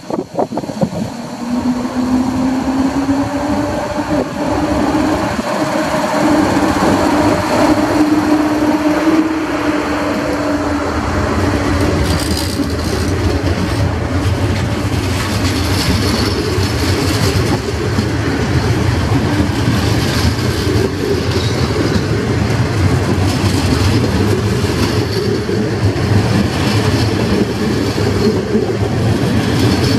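EP07 electric locomotive pulling a passenger train away from the platform. Its whine rises in pitch over the first ten seconds or so as it picks up speed. The coaches then roll past with a steady rumble and wheel clatter.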